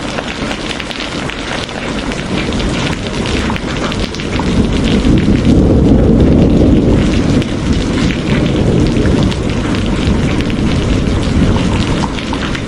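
Steady heavy rain with a low rumble of thunder that swells about four seconds in and fades away over the next several seconds.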